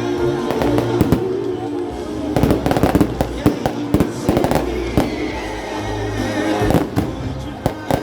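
Fireworks going off in irregular clusters of sharp bangs and crackles, over loud music with a steady bass.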